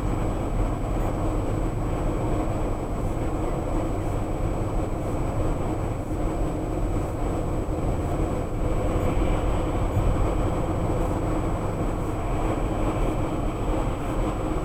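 Steady road and engine noise of a car driving at freeway speed, heard from inside the car, with a thin constant high-pitched tone over it.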